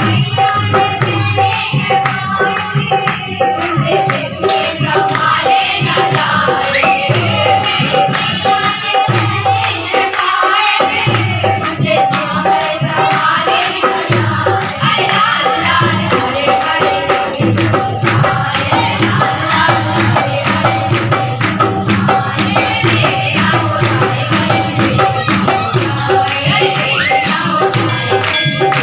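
Devotional hymn to the goddess, singing with instruments over a steady jingling tambourine-like rhythm.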